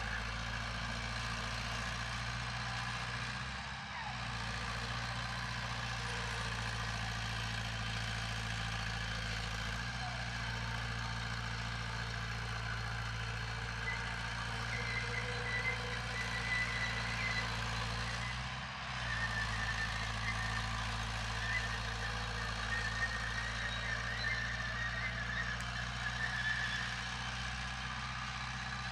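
Heavy diesel earthmoving machinery running steadily at work, a deep, even engine hum, with two brief drops in level about four and nineteen seconds in.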